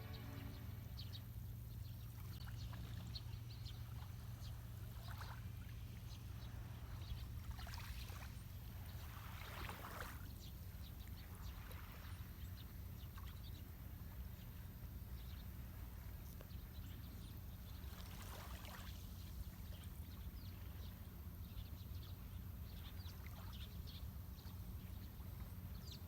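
Small lake waves washing onto the shore over a steady low rumble, with fuller washes about eight to ten seconds in and again around eighteen seconds.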